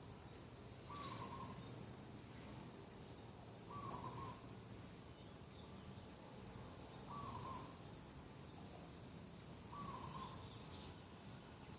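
Dove cooing: a short call repeated about every three seconds, with faint higher chirps of other birds.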